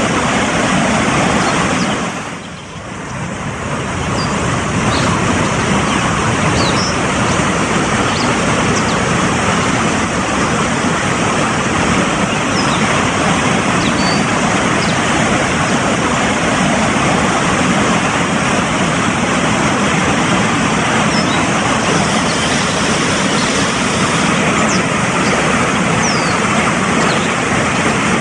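Fast-flowing mountain stream rushing steadily, dipping briefly about two seconds in, with a few faint high chirps of small birds scattered through.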